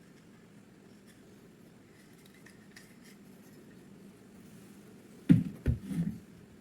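Three sharp metallic clacks in quick succession a little over five seconds in, the first the loudest, over a faint steady low hum.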